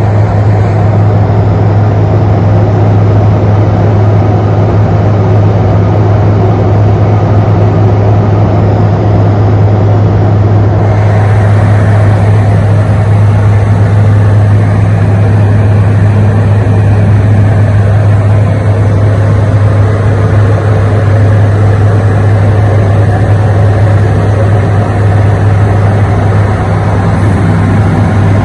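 Steady drone of a light aircraft's piston engine and propeller, heard inside the cockpit, with a constant low hum and a wash of air and engine noise.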